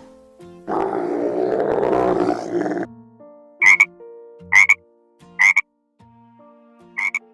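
Frog croaking: a dense two-second call, then four short, sharp croaks about a second apart, over soft steady music tones.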